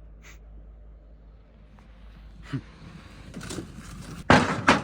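A few scattered knocks, then a loud thump and clatter near the end, over a steady low hum.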